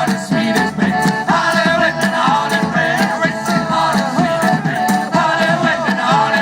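Folk shanty band playing live: a lively melody over a steady percussive beat.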